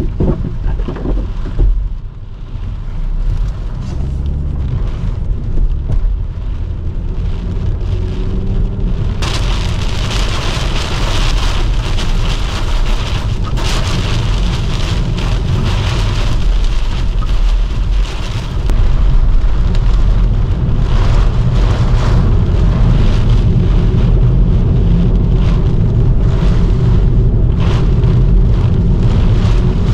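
Heavy thunderstorm rain and gusting wind beating on a moving car, heard from inside the cabin. A low rumble of wind buffeting runs throughout. The rain's hiss grows much heavier about nine seconds in, and the whole gets louder again around nineteen seconds.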